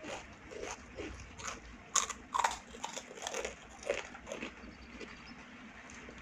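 Biting and chewing of crunchy fried papad: a run of crisp crunches, loudest about two seconds in, giving way to softer chewing in the second half.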